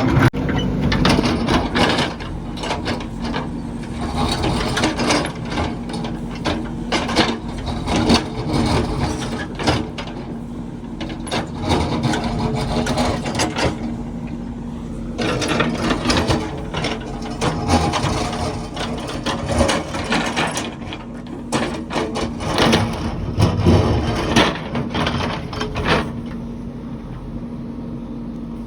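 A heavy construction machine's engine running steadily under a clatter of irregular knocks, scrapes and clanks of machinery working.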